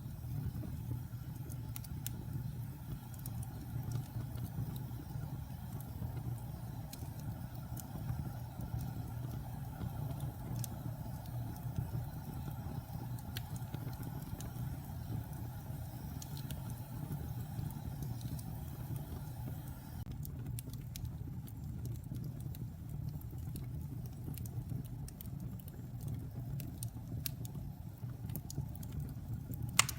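Wood fire burning in a fireplace: a steady low rumble with scattered sharp crackles and pops, and one louder pop near the end.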